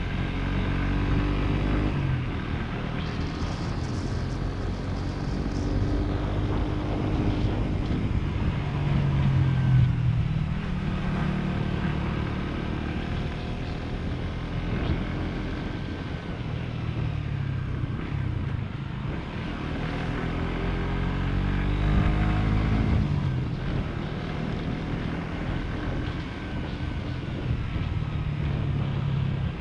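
Motorcycle engine running under way, its pitch climbing as it revs and dropping back several times with gear changes.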